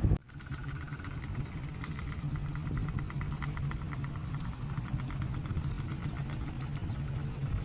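Helicopter running steadily: a low engine hum with a rapid, even rotor beat, starting abruptly just after a sudden break.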